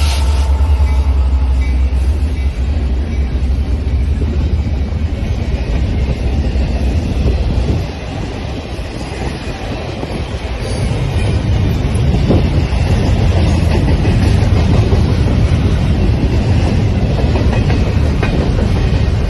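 Indiana Railroad SD90MAC diesel locomotives passing close by with a heavy, low engine rumble that fades about eight seconds in. It is followed by the freight cars rolling past with a steady rushing wheel-on-rail noise that builds again from about eleven seconds in.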